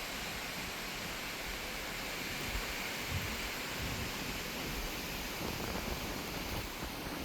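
Strong wind rushing through trees, a steady hiss of tossing leaves and branches, with gusts buffeting the microphone in uneven low rumbles.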